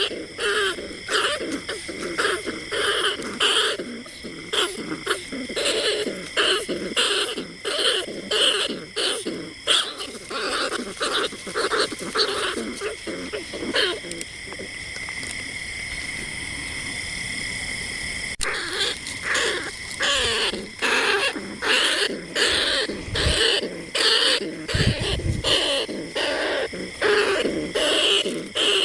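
Rat squeaking calls of the kind used as a lure for bandicoot rats and rice-field rats: a rapid, repeated string of high squeaks. Just past the middle they give way for a few seconds to a steadier, drawn-out squeal, then break off abruptly and the rapid squeaking resumes.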